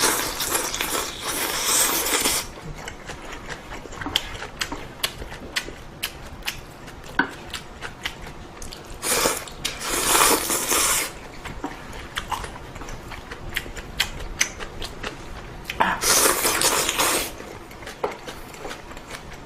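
Ramen noodles slurped loudly three times, near the start, about halfway and near the end, with small clicks of chopsticks and cutlery against the bowl and chewing in between.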